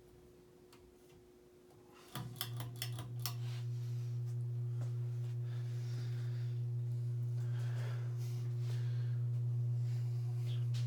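Circa-1985 Evergo hugger ceiling fan with a cast-iron motor: a quick run of clicks about two seconds in as its switches are worked, then a strong, steady motor hum starts and holds as it runs on low speed in reverse (updraft). The hum is this fan's persistent fault, which the owner puts down to its rubber motor bushings having rotted away, leaving the motor sitting metal to metal.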